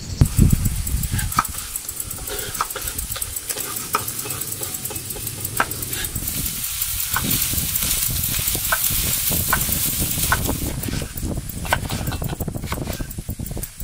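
Food sizzling in a hot pan while being stirred, with a metal utensil clicking against the pan now and then.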